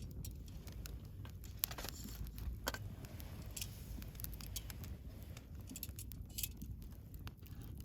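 Wood bonfire crackling, with irregular sharp pops and snaps over a low steady rumble of the burning fire.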